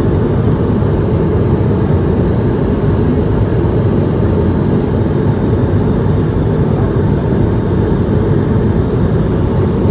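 Steady cabin noise of an Airbus A220-100 in flight: a deep, even rumble of engine and airflow noise from its Pratt & Whitney geared turbofans, heard from an economy seat.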